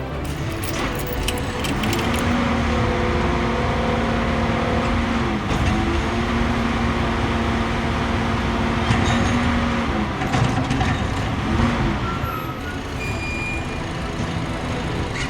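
A motor vehicle engine running with a steady hum that dips briefly midway, then rises and falls in pitch a couple of times near the end.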